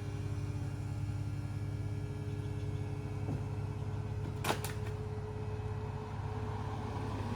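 A vehicle engine running steadily with a low, pulsing hum, and a sharp double click about four and a half seconds in.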